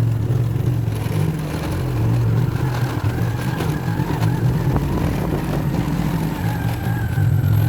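A vehicle engine running with a steady low drone, varying a little in strength.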